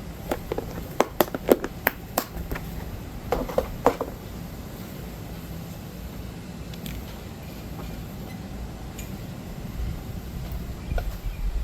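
A run of sharp clicks and knocks, about ten in the first four seconds, as a kei truck's turn-signal light assembly is handled and fitted back in place, then only a low steady background rumble.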